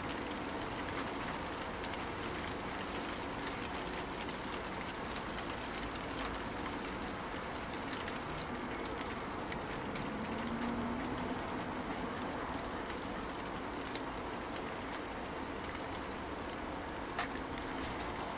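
Steady light rain falling in a shower, an even hiss with a few sharp drip ticks.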